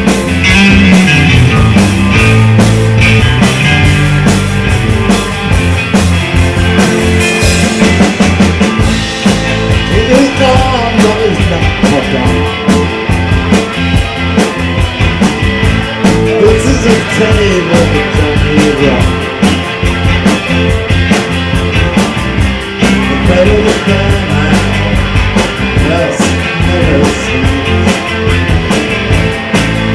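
Rock band playing live, with drums and electric guitars, at a steady loud level.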